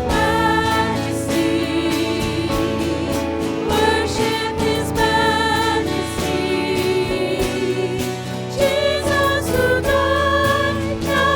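Sung worship music: voices holding long notes with vibrato over steady instrumental accompaniment.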